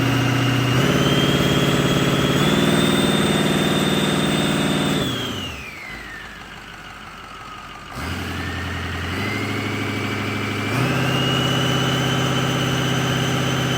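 International VT365 V8 turbodiesel engine revved up in steps, dropping back toward idle about five seconds in, then stepped up again twice. A high whine rises and falls smoothly with the revs.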